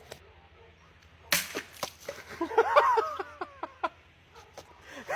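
A sharpened blade strikes and cuts through a thick plastic bottle in one sharp hit about a second and a half in, followed by excited voices whooping.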